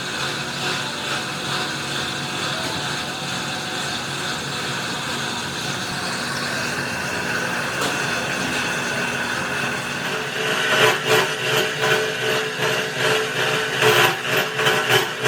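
Tire-factory machinery running with a steady hum of several held tones. About ten seconds in, a rhythmic pulsing starts, about two to three beats a second.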